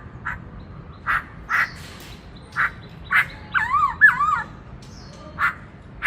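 Black-throated laughingthrush calling: a series of short harsh notes at irregular intervals, broken a little past the middle by a quick, twisting whistled phrase.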